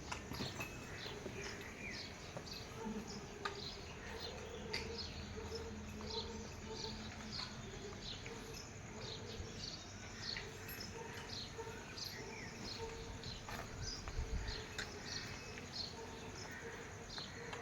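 Rainy outdoor ambience: steady hiss with many short, high chirps repeating throughout.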